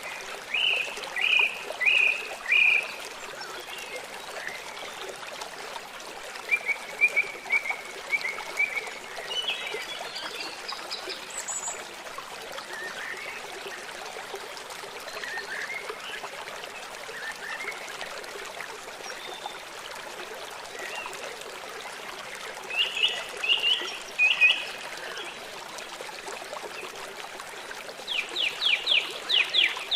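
Stream or river water flowing with a steady rushing sound, with birds singing over it: short bursts of chirps several times, and a fast run of about ten quick notes near the end.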